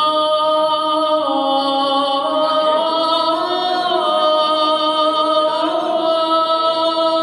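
A man chanting the Islamic call to prayer (adhan), drawing out 'Allahu akbar' in long held notes that step up and down in pitch a few times.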